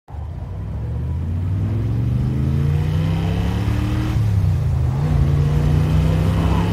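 Car engine accelerating hard, its pitch climbing steadily, dropping at a gear change about four seconds in, then climbing again.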